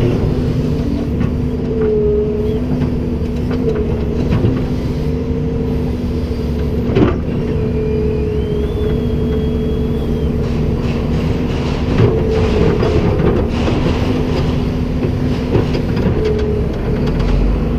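Komatsu PC290-10 excavator's diesel engine running steadily with a whine from the hydraulics that wavers slightly in pitch, and a couple of sharp metallic knocks, one about a third of the way in and another about two thirds in.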